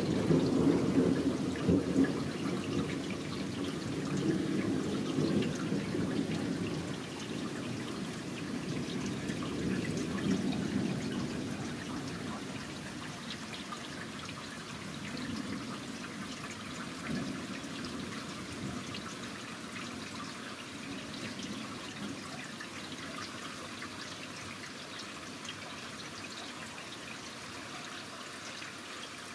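A long roll of thunder rumbling and slowly fading away over the first ten seconds or so, with rain pattering steadily throughout.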